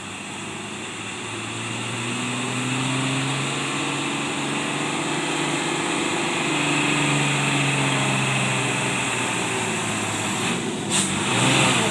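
Truck engine labouring under load up a steep climb, growing louder over the first few seconds, its pitch rising slightly and then easing. A short burst of hiss comes near the end.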